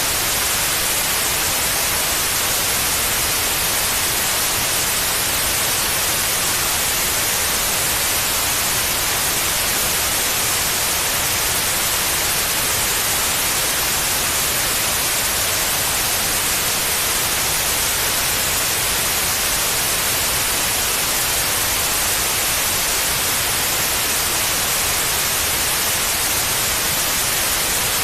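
Steady white noise: an even, unbroken hiss strongest in the high range, played continuously as a sleep aid for babies.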